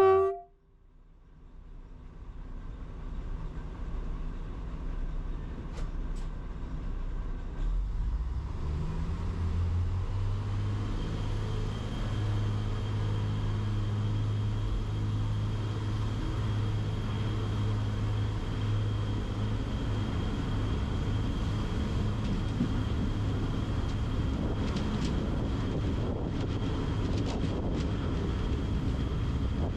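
A railway locomotive at the station, its noise building over the first several seconds and then settling into a steady low hum with a thin high whine. A brief loud sound cuts off abruptly right at the start.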